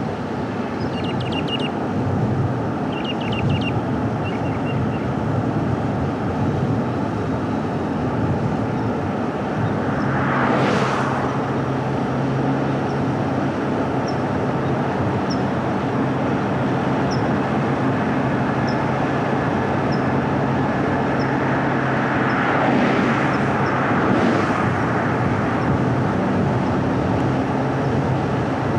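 A car driving, with steady tyre and engine road noise and a low engine hum. Other vehicles swell past about ten seconds in and again near the end, and a few bird chirps sound at the start.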